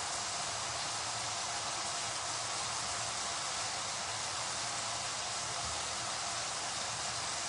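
Yardlong beans and fish cooking in masala in an open pan, sizzling with a steady, even hiss.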